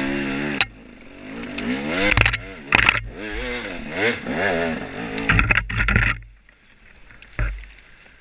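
Dirt bike engine revving up and down in quick throttle blips, then dropping off to a quiet idle about six seconds in, with one thud near the end.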